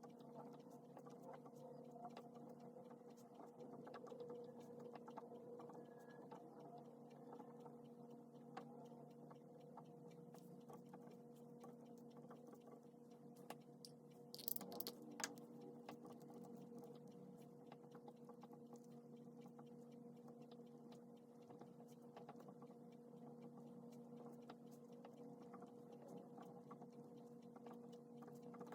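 Faint scratching and small taps of a pen writing on paper as text is copied out by hand, with a brief louder cluster of sharp scratches about halfway through. A steady low hum runs underneath.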